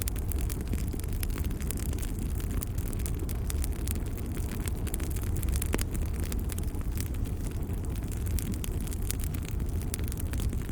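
Wood fire crackling: frequent small sharp pops and snaps over a steady low rumble.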